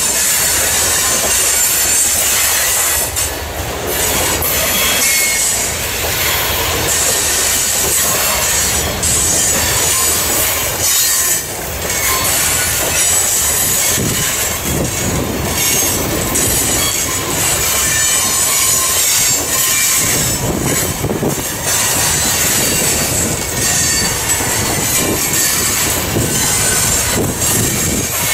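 Covered hopper cars of a freight train rolling past close by: steel wheels on rail with a steady high-pitched wheel squeal over a low rumble and irregular clatter.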